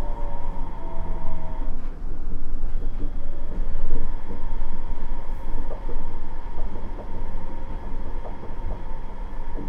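Nippori-Toneri Liner 330-series rubber-tyred guideway train running between stations, heard from inside the car: a steady low rumble with a whine from the drive, and a falling tone that stops about two seconds in. From about three seconds in there is a string of light ticks, roughly two a second.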